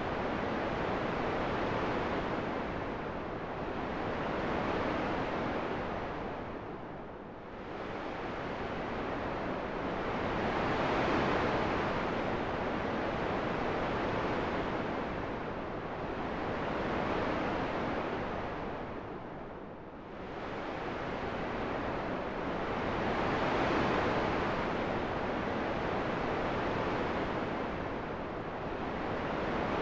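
Wind making a continuous rushing sound that swells and eases every few seconds, with deeper lulls about seven seconds and about twenty seconds in.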